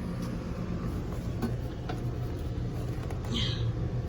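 Several 2022 Trane XL16i 5-ton heat pump outdoor units running in cooling mode: a steady low hum from the scroll compressors under the even whoosh of the condenser fans. A brief higher-pitched sound comes in a little over three seconds in.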